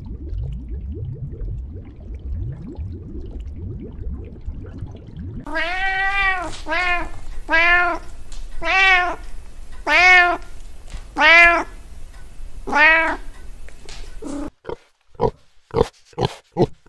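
Low rumbling noise for the first five seconds or so. Then a domestic cat meows seven times, each meow rising and falling in pitch. About a second and a half before the end, a pot-bellied pig starts grunting in short, quick grunts.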